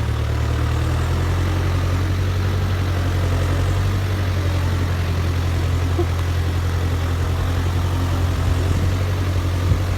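Ford 6600 tractor's three-cylinder diesel engine running steadily at a constant speed, with a low, even drone.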